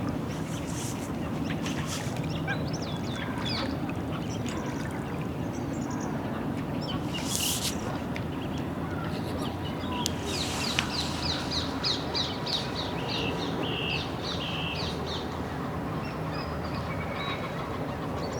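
Birds calling over a steady low background rumble. About ten seconds in, a rapid run of short, high, repeated calls lasts several seconds.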